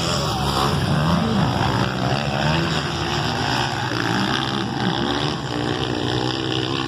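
Motocross motorcycle engines running on the track, several overlapping, their pitch rising and falling as riders open and close the throttle.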